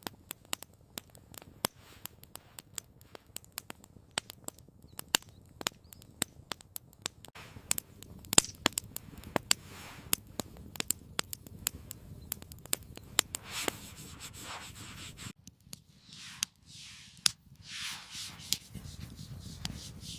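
Campfire crackling with many irregular sharp pops. After a sudden break about fifteen seconds in, a few swishing, rubbing scrapes follow.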